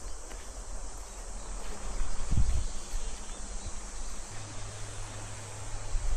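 Steady high-pitched drone of summer insects in a sunflower field, with a low thump about two seconds in and a low hum setting in after about four seconds.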